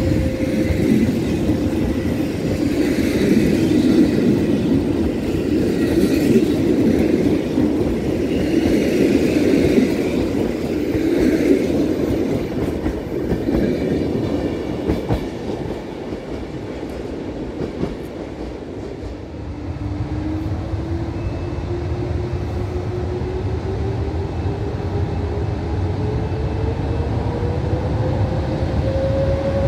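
Passenger coaches of a PKP Intercity train rolling past along the platform, wheels clattering on the rails, the sound fading after about fifteen seconds. About twenty seconds in, an electric locomotive-hauled train comes along the track with a low rumble and a whine that rises slowly in pitch.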